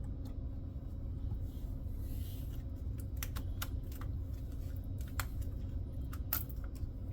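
Scattered sharp clicks and light taps of small plastic and metal computer parts being handled during a motherboard swap, starting about three seconds in, over a steady low hum.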